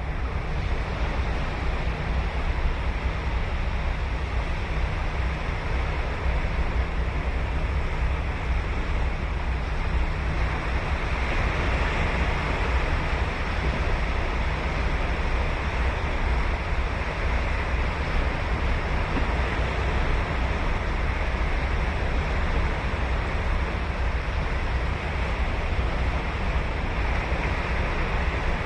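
Ocean surf breaking and washing up a sandy beach in a continuous rush. A wave swells louder around the middle, over a deep steady rumble.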